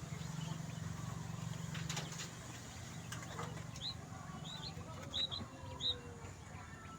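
Quail giving four short, high chirps in the second half, over a steady low hum.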